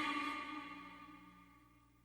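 The echoing tail of a male Quran reciter's sung voice fading out over about the first second, then near silence.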